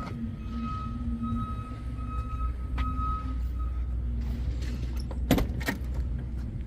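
Car engine, likely the 1970 Ford Torino Cobra's 429 Super Cobra Jet V8, running with a steady low rumble. A steady high tone sounds over the first three and a half seconds, and a few sharp clicks or knocks come about five seconds in.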